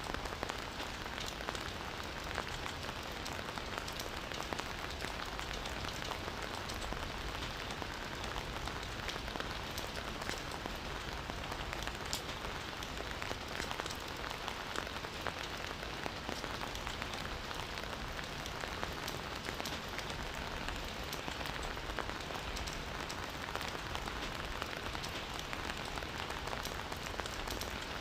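Steady rain, with a dense patter of individual drops hitting surfaces.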